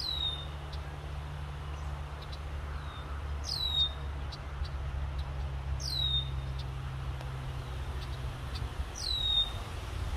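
A songbird repeating a short, high whistled note that slides downward, four times about every three seconds, with faint chips between, over a steady low rumble.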